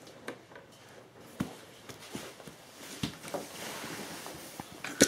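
Scattered light clicks and knocks of wooden toy pieces being handled, about half a dozen, the sharpest one near the end.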